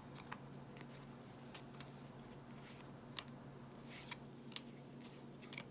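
Faint, scattered clicks and ticks of baseball trading cards being handled and flipped through by hand, over a low steady hum.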